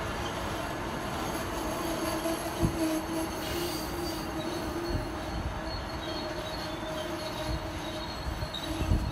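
Amtrak passenger train of stainless-steel Amfleet coaches rolling slowly through a station: steady wheel-and-rail noise with a sustained wheel squeal and an occasional knock as wheels cross rail joints.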